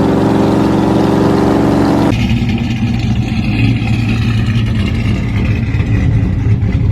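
Pickup truck engines and exhausts running loudly: an even, pitched engine drone that switches abruptly about two seconds in to a lower, steady engine hum.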